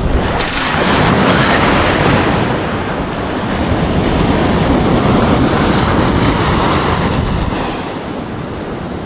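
Surf washing onto the shore in two long swells, the second easing off about three quarters of the way through, with wind rumbling on the microphone.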